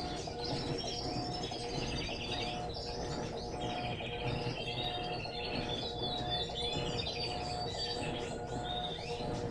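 Many small birds chirping and twittering continuously, over a steady low rumble.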